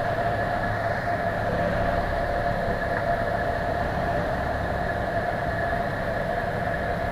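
Cabin noise of a Cessna 172 in flight: steady engine and propeller drone over a low rumble, with an even hum that does not change.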